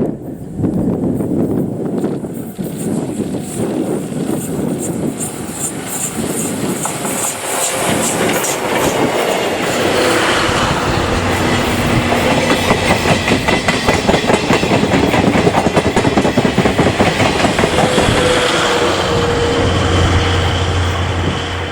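A passenger train of 12-series coaches rolling past close by, its wheels clacking in steady rhythm over the rail joints.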